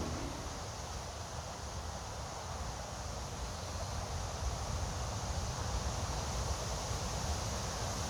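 Steady wind noise on the microphone: an even rushing hiss over a low rumble.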